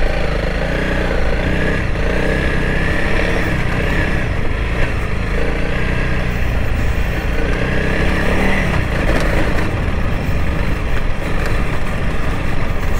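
Honda CRF300L Rally's single-cylinder four-stroke engine running under way, its pitch rising and falling several times as the throttle is opened and eased.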